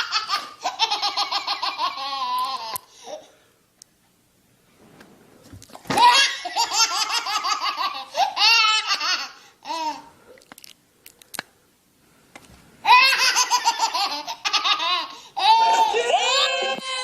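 Laughter sound effects: three separate bouts of rapid, high-pitched, pulsing laughter, with short quiet gaps between them.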